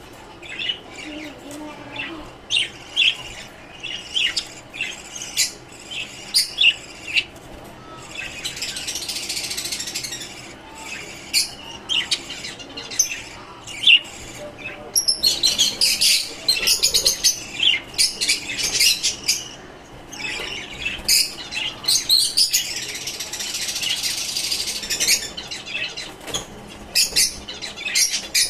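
Caged lovebirds and finches chirping and chattering: a steady run of short, sharp high chirps, with several stretches where many birds call at once in a dense chatter.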